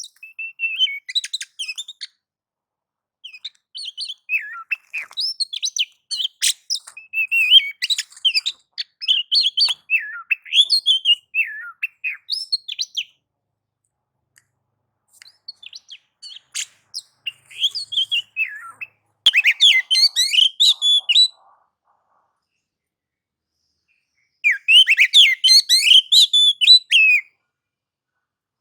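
Oriental magpie-robin (kacer) singing its aggressive 'nagan/ngobra' song: rapid, varied high phrases that sweep up and down in pitch, broken by pauses. Loud bursts of song come about 19 seconds in and again about 24 seconds in.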